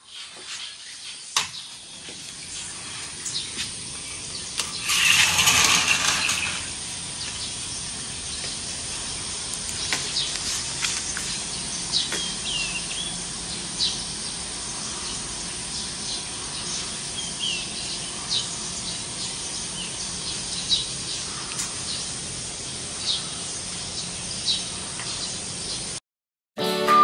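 Outdoor ambience: a steady hiss with short bird chirps scattered throughout, and a louder rushing noise about five seconds in that lasts a second or so.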